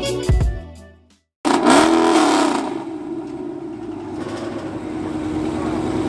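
Background music fading out, a cut, then a car engine running: its note dips and climbs once, then holds steady and slowly rises in pitch as it revs.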